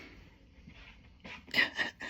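Jenday conure making short vocal sounds, with two loud bursts about one and a half seconds in.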